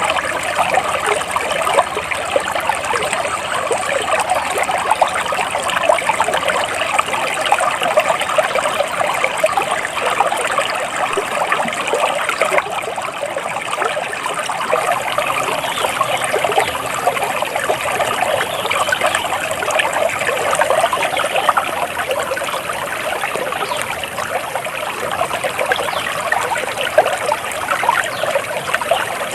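Running water of a small stream, flowing steadily with a fine, even splashing texture.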